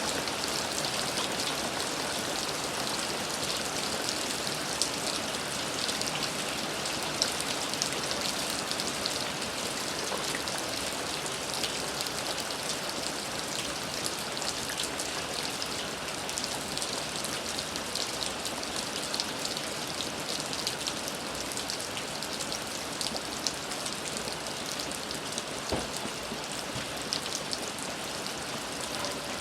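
Steady rain falling, an even hiss with many close drops pattering and ticking on a surface, a few louder drips standing out.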